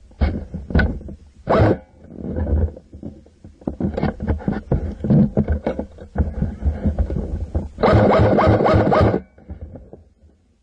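Irregular knocks and rustling as a gun-mounted camera's electric airsoft M4 is carried and handled. About eight seconds in comes a rapid burst of shots lasting a little over a second, the rifle firing on full auto.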